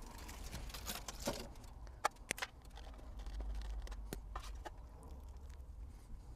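A few sharp, small clicks and taps of hands handling food and utensils, about five in all, over a faint low rumble.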